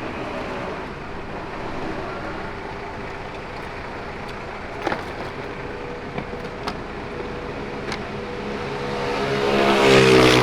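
Motor vehicle engine and road noise, running steadily with a few light clicks, then growing louder toward the end as the engine note rises.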